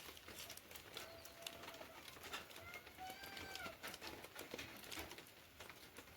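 A bird calling faintly twice, a short call about a second in and a longer one in the middle, over light irregular tapping.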